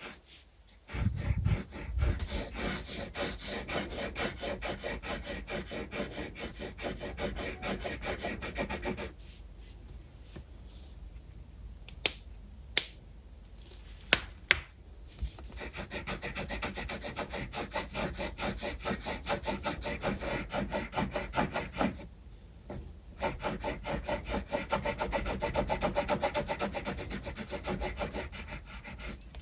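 Graphite pencil shading on sketchbook paper: quick back-and-forth scratchy strokes, about four a second, in three long runs. Two pauses break them up, and a few sharp clicks come in the first pause.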